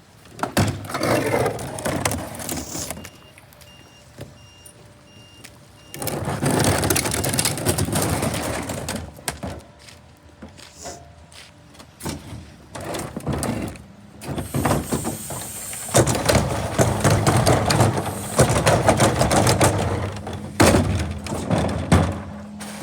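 Garbage truck at work: loud, irregular bursts of mechanical noise and hiss with quieter gaps between them. A steady low hum comes in about two-thirds of the way through.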